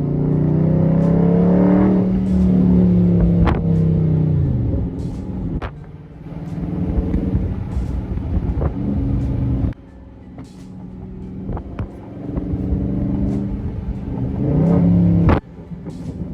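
Dodge Charger V8 exhaust with the mid muffler deleted and the valves opened in track mode, pulling under throttle with the revs climbing and falling. The sound cuts off sharply about ten seconds in and again near the end, and sharp pops and cracks come from the exhaust.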